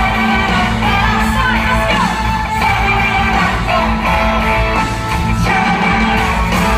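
Band music with singing: a loud, steady rock-style band with a voice over it.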